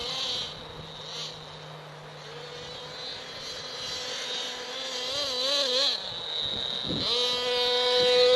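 Small .28 nitro engine of an RC monster truck running at high revs. It fades about half a second in and comes back, rises and falls in pitch a few times around the middle, dips briefly, then is loudest near the end.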